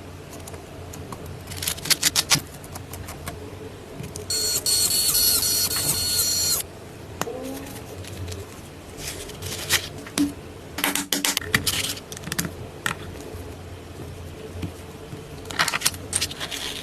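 Small metal engine-model parts clinking and clicking as they are handled and fitted, in short bursts. About four seconds in, a loud harsh high-pitched buzz lasts about two seconds.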